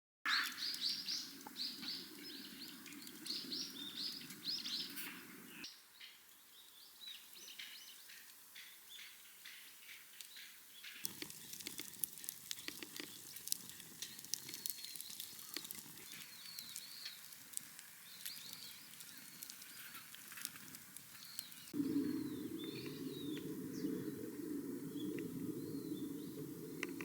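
Small birds chirping and calling repeatedly, over a low steady rushing noise that stops and starts abruptly a few times.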